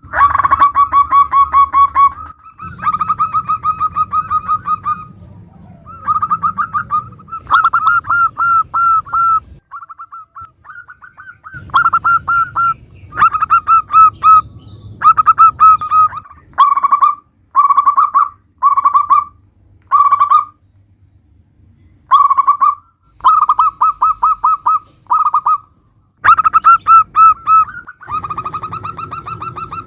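Zebra dove (perkutut) cooing: phrases of rapid staccato notes, repeated over and over with short pauses between them, the phrases growing shorter through the middle.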